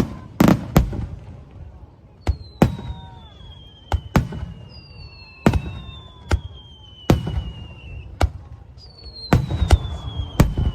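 Fireworks display: a string of sharp bangs at irregular intervals, some in quick pairs, with three long whistles that each slide slowly downward in pitch.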